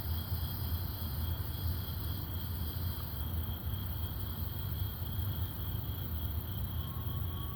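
Night insect chorus: one steady, high-pitched trill that goes on unbroken, over a low steady rumble.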